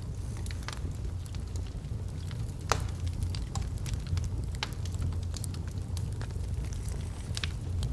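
Wood logs burning in a fireplace: a steady low rumble of the flames with irregular sharp crackles and pops, one louder pop about a third of the way in.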